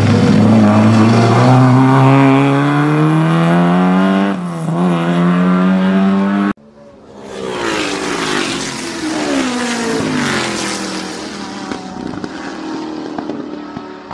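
Rally car engine accelerating hard away from a hairpin bend, its pitch climbing steadily with a brief dip for a gear change partway through. About six and a half seconds in the sound cuts off abruptly, and a quieter engine revving, rising and falling in pitch, follows.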